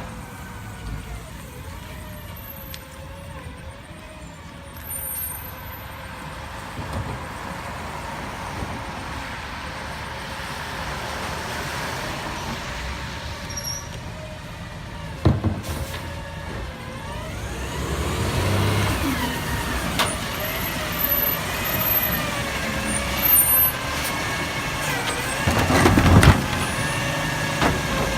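Natural-gas garbage truck running, its engine pitch rising and falling as it works. There are two loud bangs, one about halfway through and one near the end.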